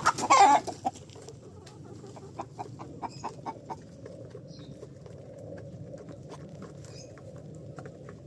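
Poultry feeding, with chickens clucking: one loud call in the first half-second, then a run of short, quick clucks over the next few seconds, and a few faint high chirps.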